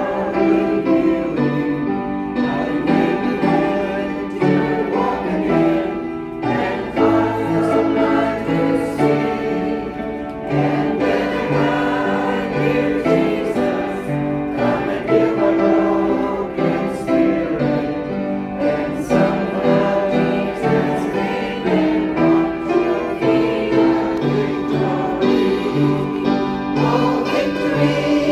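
A choir singing in harmony with long held notes.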